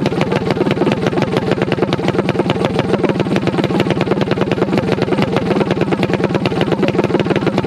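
A small motorcycle-type engine, most likely a drag minibike, running at a steady idle with a rapid, even firing beat and no revving.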